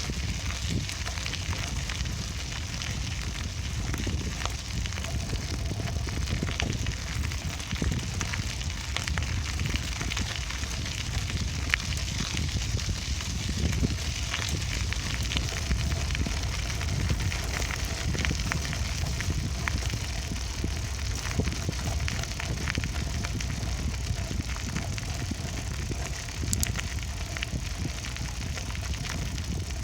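Bicycle riding heard from on the bike: a steady low rumble of tyres rolling over the path, with many small crackles and clicks from the surface and the bike's rattles throughout.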